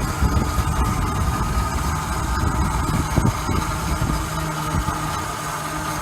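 Eurocopter helicopter's turbine engine running steadily at idle, a constant whine over a heavy rumble.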